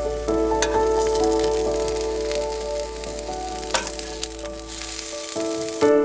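Hot dogs sizzling and crackling as they fry in a pan on a small camp stove, under background music; the sizzle cuts off near the end.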